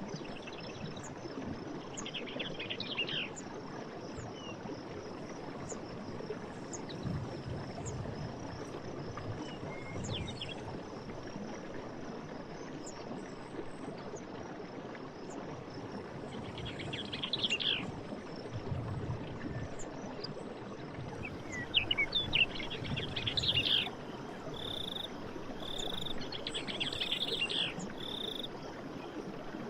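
A forest stream running steadily, with birds calling in several short bursts, among them four clear notes about a second apart near the end, over a steady high insect trill.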